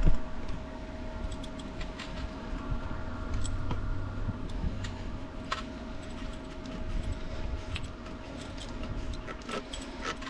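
Scattered light metallic clicks and rattles of small parts being handled, over a faint steady hum.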